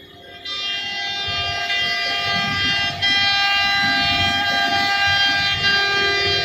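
CNC wood router running with a steady whine of many overtones over a low rumble. It starts about half a second in and gets louder about three seconds in.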